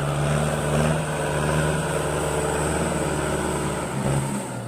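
Kubota farm tractor diesel engine running steadily, a constant engine drone whose pitch shifts slightly about four seconds in.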